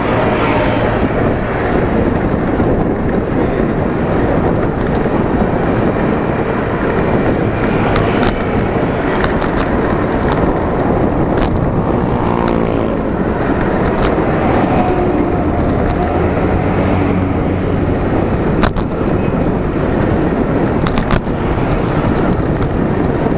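Wind rushing over the microphone of a camera on a moving bicycle, mixed with road and traffic noise. About halfway through comes a short pitched sound that changes in pitch, and there are two sharp clicks in the last third.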